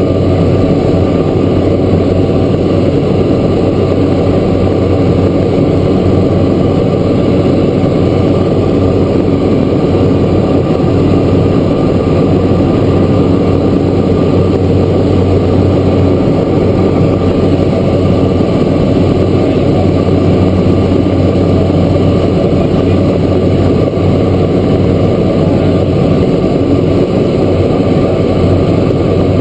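Cessna Grand Caravan's single turboprop engine and propeller heard from inside the cabin: a loud, steady drone with a low hum, holding constant throughout.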